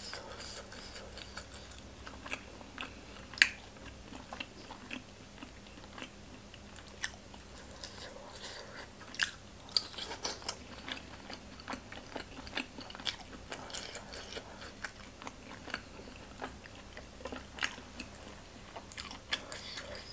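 Close-miked chewing and biting of boiled pork offal: irregular sharp mouth clicks and smacks, the loudest about three and a half seconds in.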